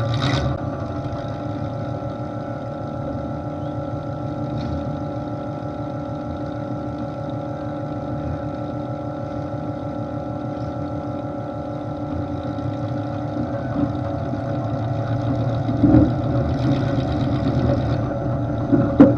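The derby hearse's V8 engine idling steadily through short open exhaust stacks, with a couple of knocks near the end.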